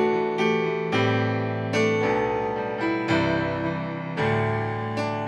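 Keyboard accompaniment to a slow worship song: sustained chords, a new chord struck about every second, between sung lines.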